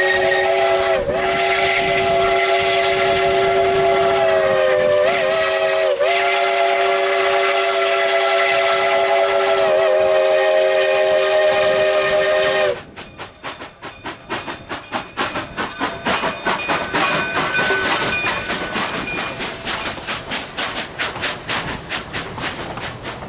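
Narrow-gauge steam locomotive whistle blowing one long blast of several notes at once, dipping briefly in pitch three times as the valve is worked, then cutting off sharply about halfway through. After it comes a quieter, fast, even rhythm of the train running.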